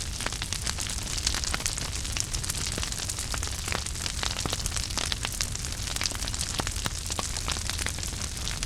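Wood fire burning in a fireplace: a steady low rumble and hiss of the flames with frequent irregular crackles and pops from the burning logs.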